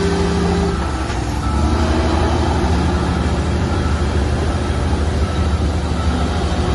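Heavy diesel engines of earthmoving machinery running under load: a deep steady rumble that dips briefly about a second in and then picks up again, with faint short beeps repeating over it.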